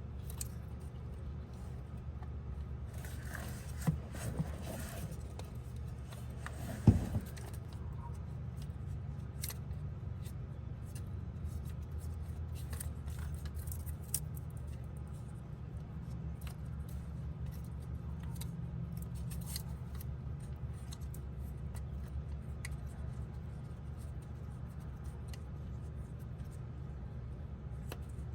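Small metal tools and parts clinking and being handled, with one sharp knock about seven seconds in, over a steady low hum.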